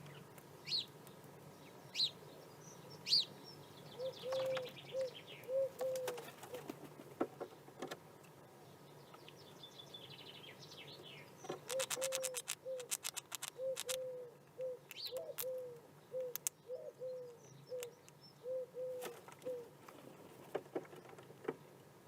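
Outdoor birdsong: a few high chirps, then two runs of short, low cooing notes at about two a second, typical of a dove or pigeon. Bursts of rapid sharp clicks come in twice, the longest just before the second run of coos.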